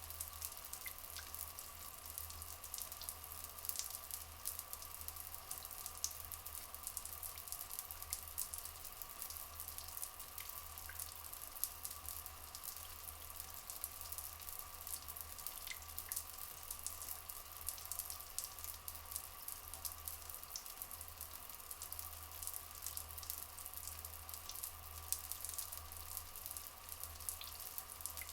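Flowing water trickling and splashing in a continuous crackling patter, with a faint steady tone underneath.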